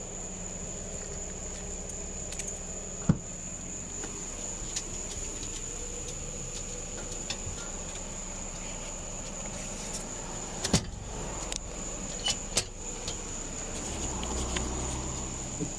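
Sharp clicks and light jingling of handled gear or keys, a single click about three seconds in and a cluster of them around eleven to thirteen seconds, over a steady high-pitched whine and a low hum.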